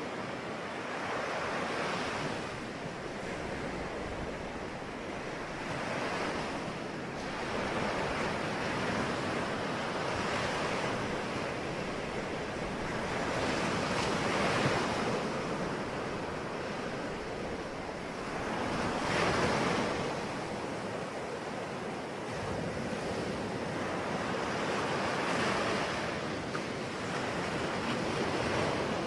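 Sea waves breaking on the shore, a steady wash of surf that swells with each wave about every four to five seconds, with some wind on the microphone.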